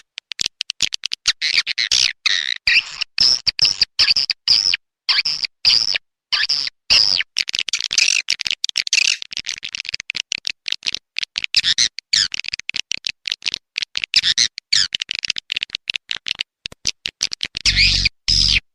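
Edible-nest swiftlet lure call: a looped recording of dense, high-pitched twittering chirps, played to draw swiftlets into a nesting house. It is chopped by many abrupt short silences, and a low buzzing tone joins in near the end.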